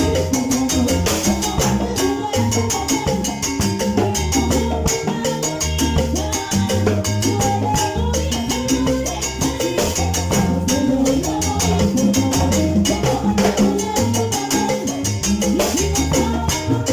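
Salsa band playing, with a moving bass line under dense percussion.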